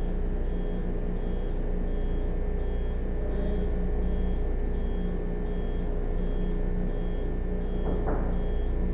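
A short high beep repeating about every 0.7 seconds over a steady low hum, with a brief swishing sweep near the end.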